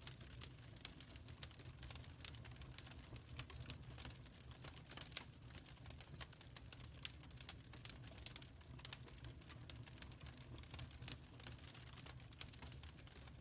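Wood fire crackling in a firepit: a faint, irregular run of sharp pops and ticks over a steady low rumble.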